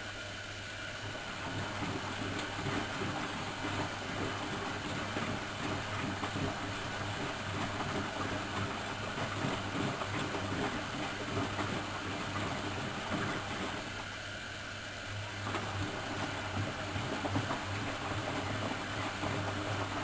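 Miele Professional WS 5105-C washing machine running through its cycle: a steady mechanical churning over a constant low hum, briefly quieter twice, at the start and about three-quarters of the way through.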